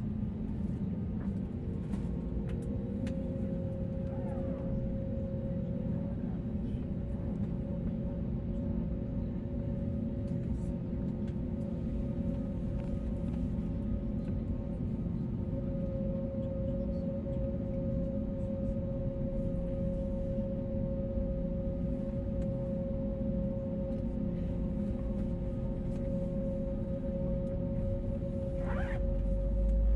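Airbus A321neo jet engines running steadily, heard from inside the cabin: a low rumble with a steady whine of several held tones, swelling slightly right at the end.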